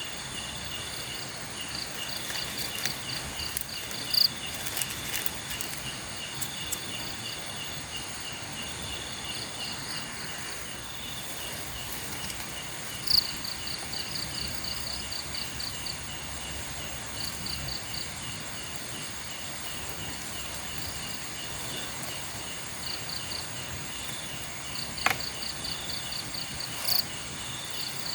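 Night insects calling: crickets in rapid pulsed trills over a steady high-pitched buzz, a chorus that keeps going throughout. A few short, sharp sounds stand out above it, about four seconds in, near the middle and twice near the end.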